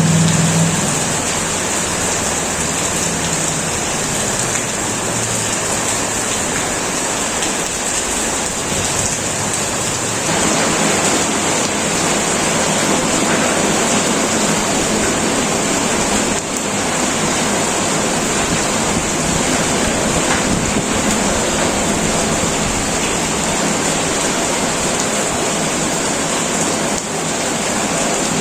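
Heavy rain drumming steadily on a tin roof, a dense even downpour. A low rumble of thunder fades away in the first couple of seconds.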